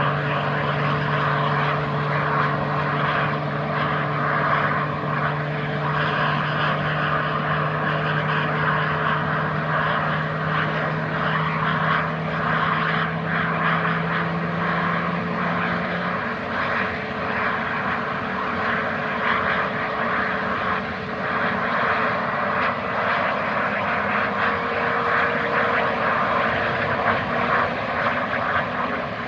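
Jet engines of an Airbus A320neo running steadily, a dense rushing noise with a low steady hum that drops away about sixteen seconds in.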